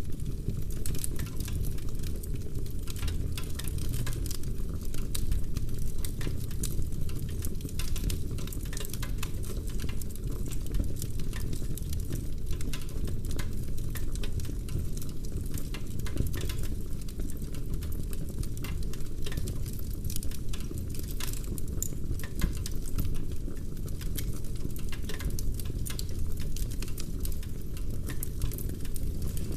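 Wood logs burning in a fireplace: dense, irregular crackles and small pops over a steady low rumble.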